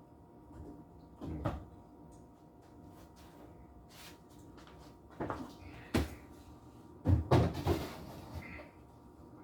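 Kitchen doors being opened and shut while food is prepared: a few separate knocks and bangs, the loudest a quick cluster about seven seconds in.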